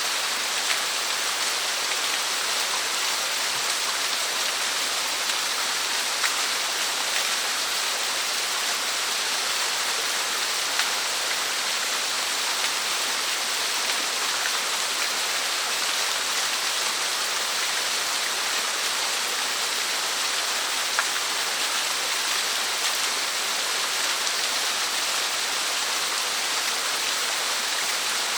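Small waterfall, about a 3 m drop, falling steadily into its pool as an even hiss of water, with a few brief splashes ticking through it.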